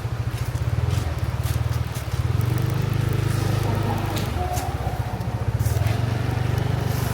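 Motorcycle engine running at low speed close by, its note swelling slightly twice, with a few light clicks and scrapes.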